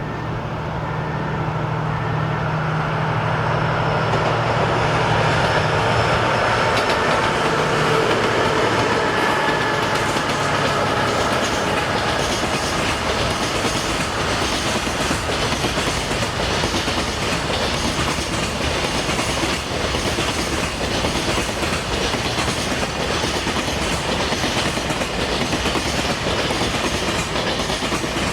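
Freight train passing. A low steady hum at first fades out about ten seconds in, then a long string of freight wagons rolls by with the clickety-clack of wheels over rail joints.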